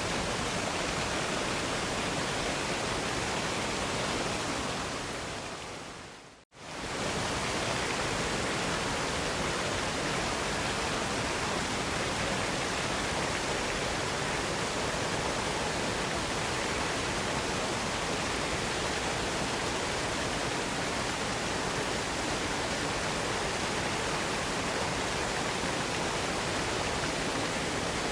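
Steady, even rushing of falling water from a waterfall. About six seconds in it fades away to a moment of complete silence, then swells straight back to full level: the join where the recording loops.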